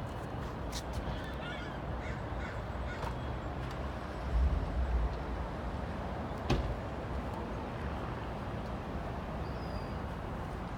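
Outdoor background with birds cawing, a low rumble about four seconds in, and a sharp click about six and a half seconds in.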